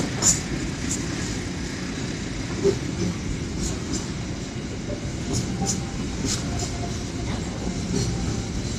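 Container freight train's loaded flatcars rolling past on the track: a steady rumble of steel wheels on rail, with irregular sharp clicks.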